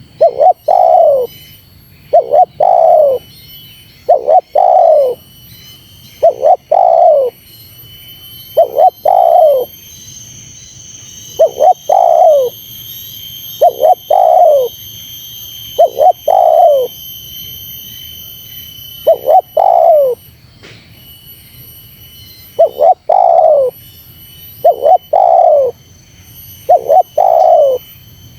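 Spotted dove (terkukur) cooing over and over in quick succession, each phrase a short note and then a longer coo that falls in pitch, about one every two seconds with a few longer pauses. This is the pressing, rival-challenging call used to lure wild males.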